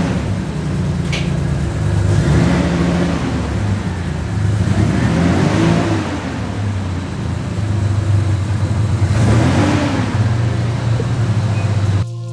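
1986 Nissan 300ZX's V6 engine under way, its pitch rising and then dropping about three times as the car accelerates and shifts up through the gears. The sound cuts off abruptly just before the end.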